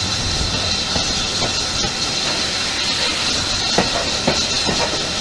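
Steady rushing running noise of a steam-hauled passenger train, heard from inside a moving carriage, with a few short knocks about four seconds in.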